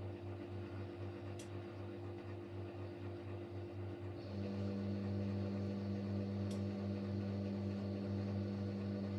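Siemens Siwamat Plus 574 washing machine running steadily during an intermediate spin, with a pulsing low hum. About four seconds in, a second steady, louder tone joins and stops near the end.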